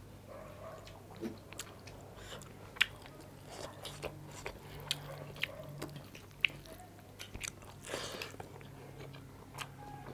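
Close-up chewing and biting of a rice, dal and meat meal with raw cucumber: many short wet mouth clicks and a few crunches, over a faint steady low hum.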